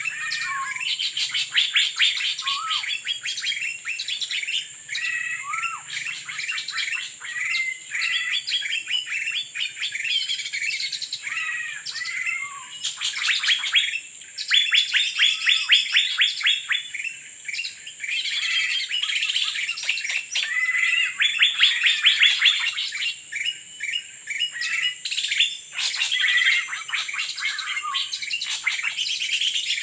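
Songbirds chirping and twittering densely, with rapid runs of short notes and falling call notes, over a steady high whine.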